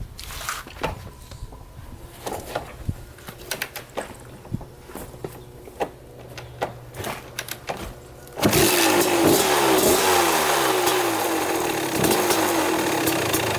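Light clicks and knocks, then about eight seconds in a 1995 Kawasaki KX250's two-stroke single-cylinder engine fires and runs loudly. Its pitch falls and rises as it is revved while the idle is still being set.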